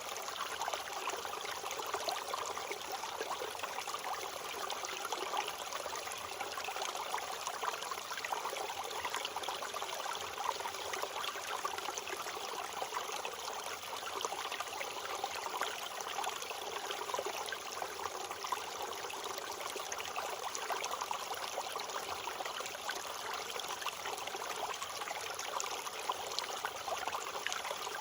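A flowing stream babbling and splashing steadily.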